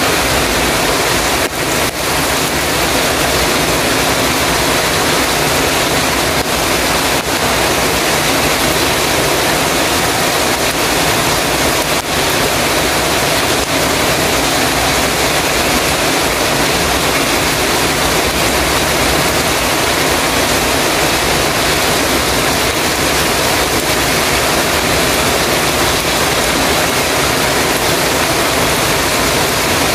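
Heavy rain falling steadily on a metal roof, a dense, even hiss of drops with no thunder.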